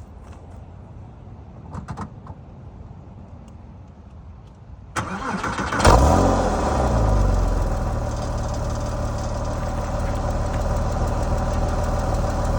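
A few faint clicks, then about five seconds in the Porsche 997's flat-six engine is cold-started: a brief crank of the starter, a loud flare of revs as it catches, then it settles within a couple of seconds into a steady cold idle.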